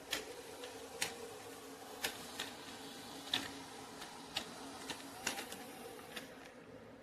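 ECOVACS DEEBOT X9 Pro Omni robot vacuum-mop running: a faint steady motor hum with sharp clicks at irregular intervals, roughly one a second.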